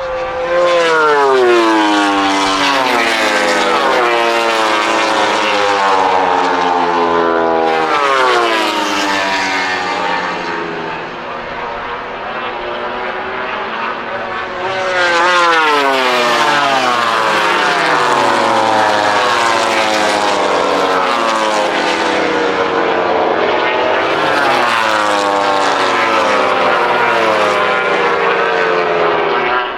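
MotoGP racing motorcycles' four-cylinder 1000 cc engines at high revs, several bikes passing in turn. Each engine note drops sharply in pitch as a bike goes by, with revs climbing and stepping between gear changes.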